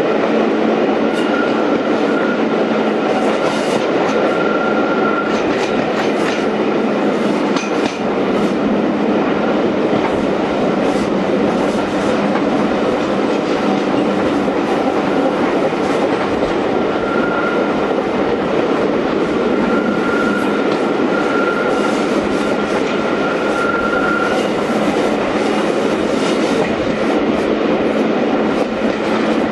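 Heritage railway passenger coach running along the line, heard from an open window: a steady rumble of wheels on rail with scattered clicks over rail joints. A faint high squeal comes and goes twice.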